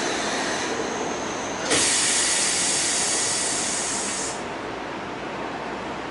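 Inside a Kyoto Municipal Subway 20 series car: steady train noise, then a sudden loud hiss of released air starts about two seconds in and cuts off after about two and a half seconds, leaving a quieter background.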